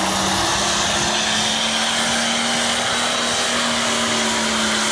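Farm tractor engine running hard and steady under load while pulling the weight sled, its pitch rising slightly and then holding.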